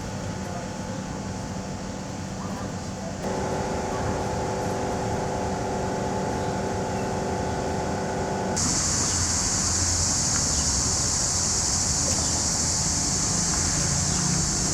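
Outdoor town ambience with a steady low machine hum. A few seconds in, a set of steady whining tones joins it. About halfway through they stop and a loud, steady high-pitched buzzing hiss takes over.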